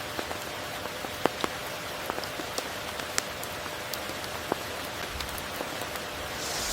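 Steady rain falling: an even hiss scattered with sharp hits of single close drops, a few of them louder. The hiss swells briefly near the end.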